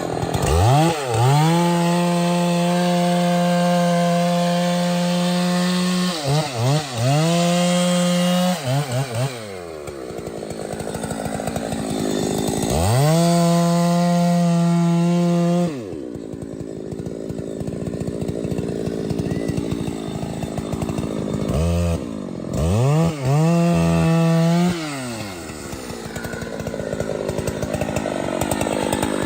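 Chainsaw revving to full throttle again and again, holding a steady high pitch for a few seconds each time (the longest runs are about 5 s and 3 s) as it cuts wood. Between runs it drops back to a rough idle, with a few quick throttle blips.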